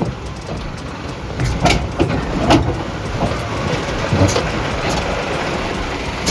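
Vehicle driving on a rough track: a steady rumble of engine and road noise with several sharp knocks and rattles.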